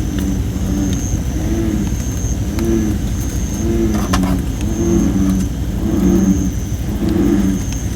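American bullfrogs calling, a low pitched croak repeated about once a second, over a wood fire of thin, poorly seasoned red robin (Photinia) wood. A few sharp crackling pops come a little after the middle, and a high thin tone comes and goes about once a second.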